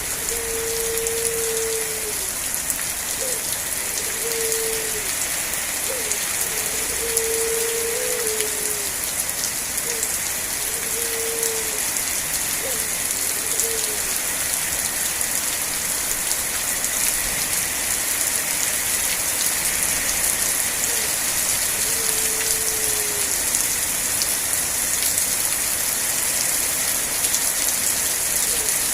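Steady, heavy rainfall hissing on surfaces. Through it, a low pitched note keeps coming and going: some short, some held for a second or so and sliding down at the end. It is frequent at first and sparser later.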